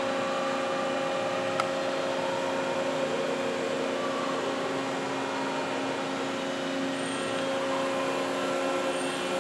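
Steady hum of the Cincinnati Autoform press brake's hydraulic pump and motor running at idle, with a single light click about a second and a half in.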